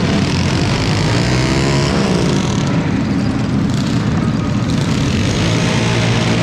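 Small mini bike engines running steadily, with one revving up and back down about two seconds in.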